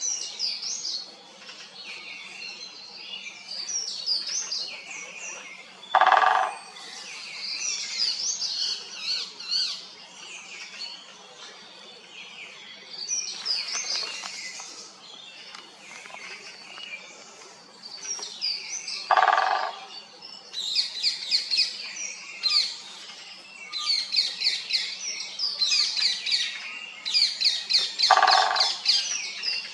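Several songbirds singing at once, with overlapping high chirps and fast repeated trills. A larger bird gives a short, lower, louder call three times: about six seconds in, about nineteen seconds in and near the end.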